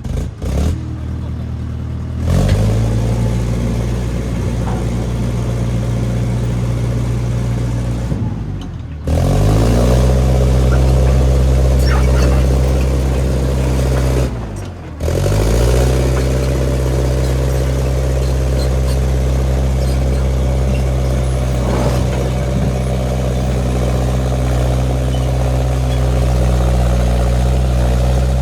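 International 125 crawler loader's engine running steadily under working throttle, with its pitch dipping briefly twice and climbing back up as it takes and sheds load, with faint clatter over it.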